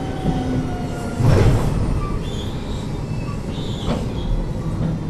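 Keio 7000 series field-chopper electric train running, heard from inside the car: a steady rumble of wheels on rail, with a faint whine falling in pitch during the first second as the train slows. A heavy low thump comes just over a second in, and a lighter knock a little before the end.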